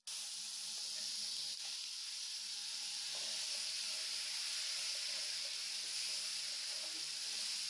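Ground tomato and spice paste sizzling in hot oil in a kadai: a steady hiss, with the paste stirred by a wooden spatula.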